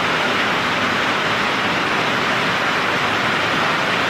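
Very heavy thunderstorm rain pouring down as a dense, steady hiss.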